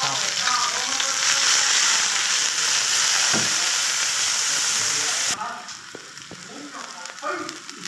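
Chopped lemongrass and pounded aromatics sizzling loudly in hot oil in a metal wok while being stirred with a metal spatula. The sizzle cuts off abruptly about five seconds in, leaving quieter spatula scrapes and clinks against the wok.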